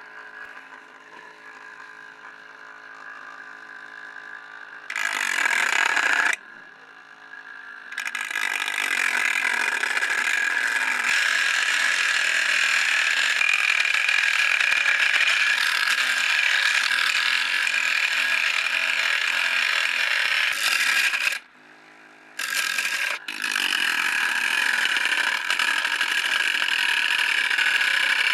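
Homemade DC-motor angle grinder running with a steady whine, then loud grinding as the disc is put to work. There is a short pass about five seconds in, then a long continuous stretch, and after a brief break it grinds again to the end.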